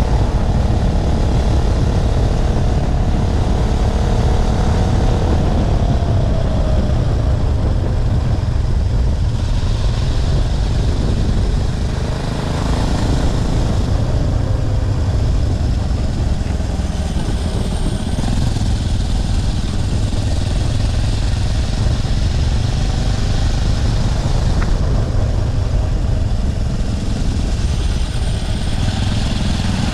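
A 212cc single-cylinder four-stroke motorbike engine running under way, mixed with heavy wind rush on the microphone. The engine note falls about six seconds in.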